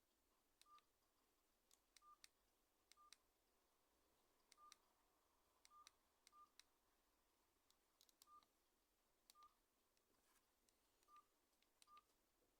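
Faint short beeps at one pitch, about ten of them at irregular intervals, each with a click: keypad keys being pressed on a Nokia N95 8GB phone, sounding its key tones.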